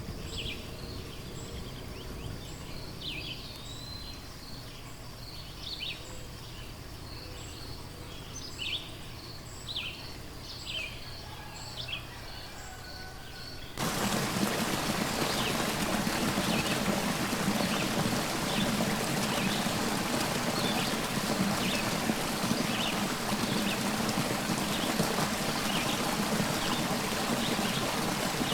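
Birds calling: short, high, descending calls repeated every second or so over a quiet background. About halfway through it cuts suddenly to a louder, steady rush of running water, with bird calls faint above it.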